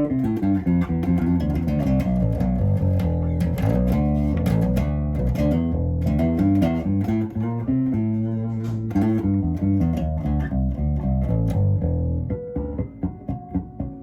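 Rickenbacker 4003 electric bass played on its bridge pickup alone through an Aguilar Tone Hammer 500 amp: a busy run of plucked notes, easing near the end to a few quieter, higher ringing notes.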